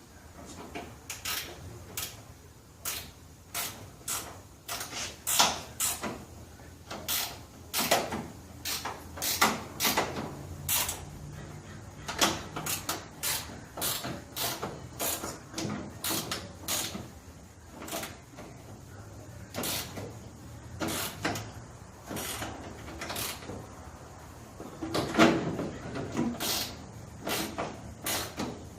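Hand tools working a mirror's U-bolt mount loose: an irregular string of sharp metallic clicks and knocks, at times several a second.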